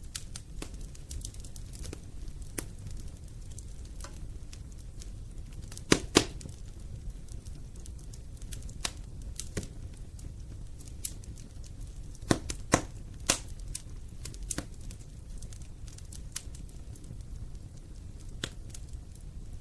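Wood fire in a fireplace crackling: a steady low rumble of flames with irregular sharp snaps, and a few louder pops about six seconds in and again around twelve to thirteen seconds in.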